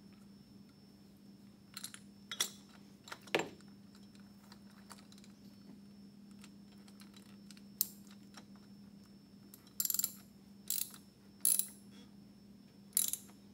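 Scattered metallic clicks and short bursts of clicking, about nine in all and loudest near the end, from hand tools and a new spin-on oil filter being handled and threaded onto the engine.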